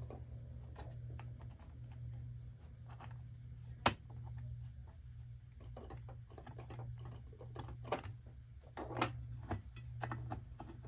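Scattered small clicks and taps of plastic and metal parts being handled during disassembly of a dashboard radio and screen unit, with two sharper clicks about four and eight seconds in, over a steady low hum.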